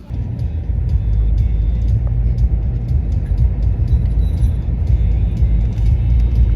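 Steady low rumble of a moving car, heard from inside the vehicle, coming in suddenly and loudly at the start.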